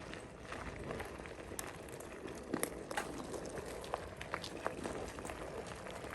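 Riding a bicycle along a road: a steady rush of tyre and wind noise with scattered small clicks and rattles from the bike.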